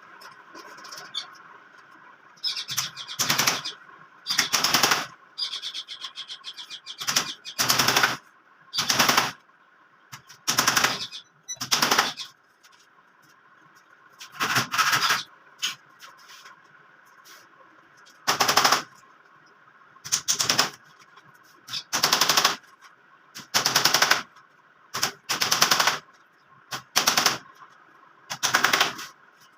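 A power tool rattling in short bursts, about a dozen times, each lasting under a second, with quiet gaps between.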